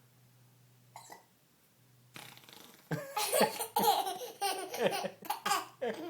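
A little girl laughing in loud, breathy bursts, mixed with the fart noises she blows into an empty applesauce container. There is one short sound about a second in, and the bursts start about three seconds in.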